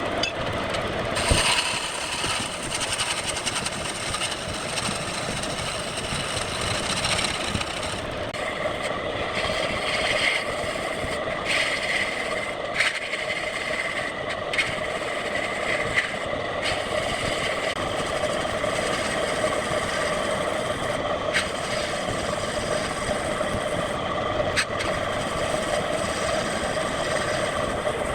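Wood lathe running steadily while a turning tool cuts the spinning wood, with a few sharp ticks and knocks now and then.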